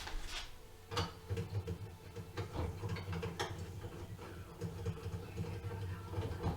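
Several sharp clicks and light clatter of plastic fridge parts being handled, over an uneven low rumble.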